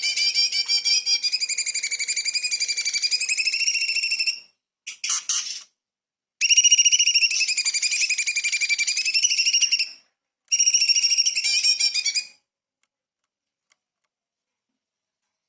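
Orange-bellied leafbird (cucak cungkok) singing: rapid, dense trilled phrases of high notes in several bouts of a few seconds each with short pauses between, stopping about twelve seconds in.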